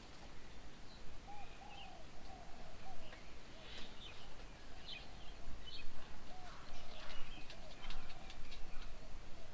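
Birds calling at a garden bird table: a dove gives a series of short, low cooing notes, with smaller birds chirping higher over it.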